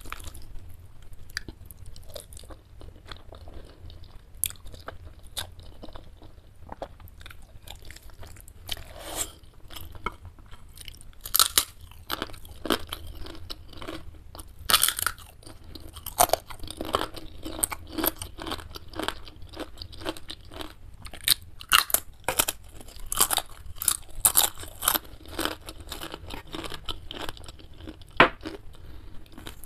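Close-miked chewing with sharp, crackling crunches of fried wonton crisp, sparse at first and coming thick and fast from about a third of the way in.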